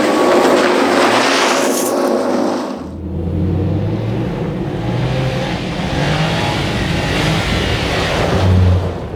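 Rally car engine running hard at high revs on a snow special stage, with a hiss over it. About three seconds in the sound changes abruptly to a deeper engine note that steps up and down in pitch.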